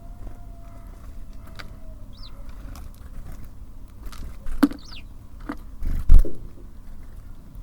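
Small birds at a feeder: a few faint high chirps, wing flutters, and sharp taps and knocks as they land and peck, the loudest a heavy thump about six seconds in.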